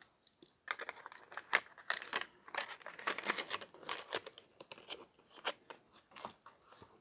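Handling noise of a die-cast toy car held close to the microphone: a rapid, irregular run of small clicks and crinkles.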